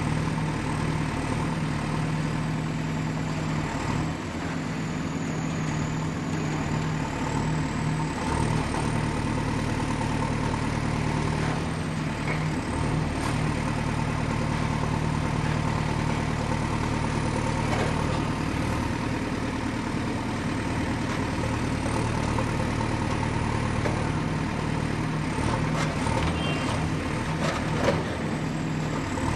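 Excavator's diesel engine running steadily at work, with a thin high whine that drifts up and down in pitch. A few short knocks come near the end, the loudest about a second and a half before it ends.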